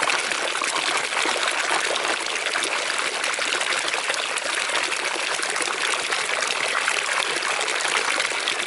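Thermal spring water running and trickling steadily.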